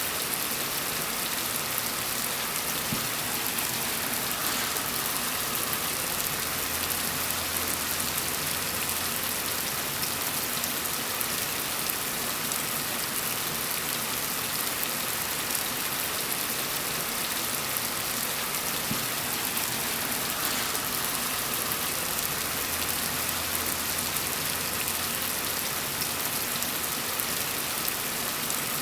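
Steady, gentle rain falling, an even hiss of many drops. A faint low rumble swells and fades twice underneath it.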